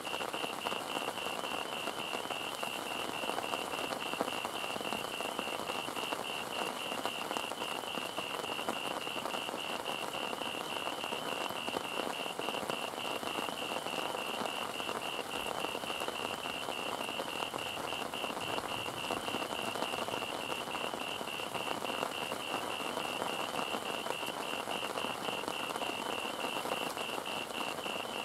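Steady heavy rain falling, an even hiss with no breaks. A rapid, evenly repeating high-pitched chirp runs through it.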